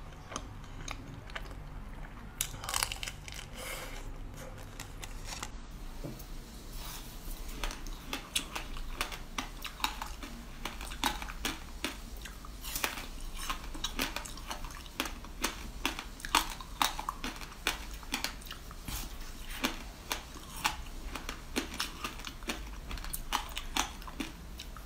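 Close-up eating sounds: soft chewing of a filled chocolate cake for the first few seconds, then crisp bites and chewing of a thin seed brittle, with several sharp crunches a second.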